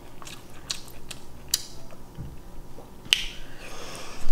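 Close-miked chewing of shrimp and mussels: scattered wet mouth clicks and lip smacks, the sharpest about three seconds in.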